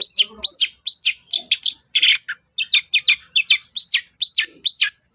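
Long-tailed shrike (pentet) singing: a quick run of arched whistled notes that rise and then fall, several in a row, mixed with short harsh scratchy notes.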